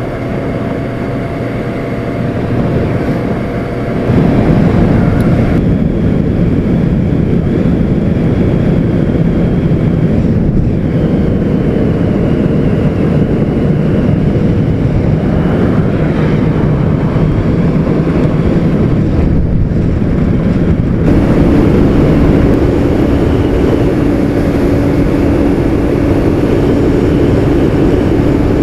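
Honda CBR600RR inline-four engine running under way, mixed with wind noise on the helmet microphone. It gets louder about four seconds in, and the engine note shifts about two-thirds of the way through.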